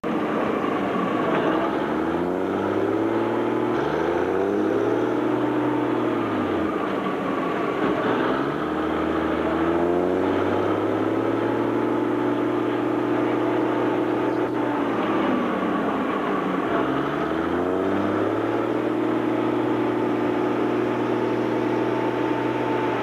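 An engine running under load, its pitch climbing and falling several times and holding steady between the changes: about two seconds in, around eight seconds in and again near seventeen seconds.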